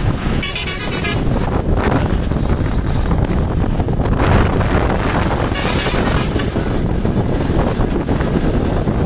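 Wind buffeting the microphone over the steady rumble of a motorcycle on the move, with two brief hissing swells, one about half a second in and one about six seconds in.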